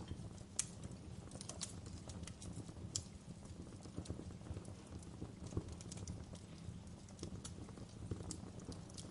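Wood fire in a fireplace crackling: irregular sharp snaps and pops over a low, steady rumble of the flames, with the sharpest snaps about half a second and three seconds in.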